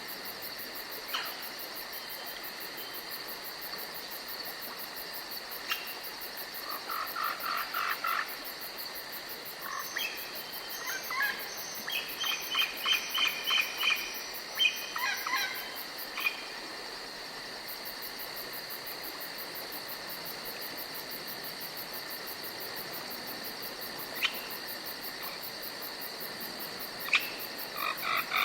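Forest ambience of insects trilling steadily, with bursts of rapid pulsed animal calls, croak-like, from about six to sixteen seconds in and again near the end.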